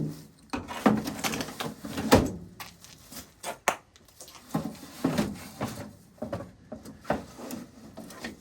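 Irregular knocks, taps and clatters of hard objects being handled and set down, with a sharp, louder knock at the very end.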